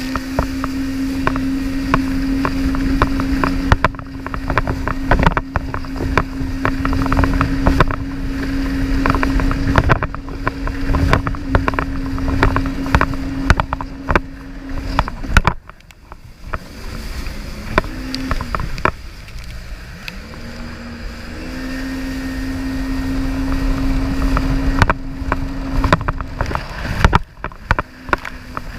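Jet ski engine running at a steady high speed with a steady drone, then easing off a little past halfway and rising back to a steady drone, with frequent sharp knocks and noise throughout.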